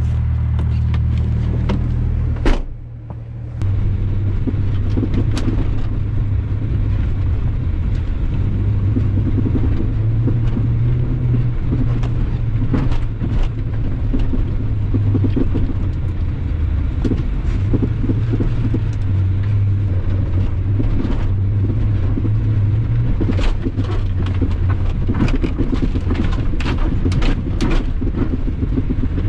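Car engine running while being driven over a rough dirt track, its note rising and falling with the throttle, with knocks and rattles from the bumps. A sharp knock about two seconds in is followed by a brief lull in the engine.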